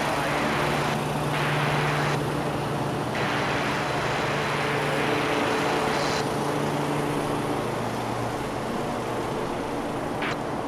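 Freight train running past, with a steady low diesel engine hum over a continuous broad rumble.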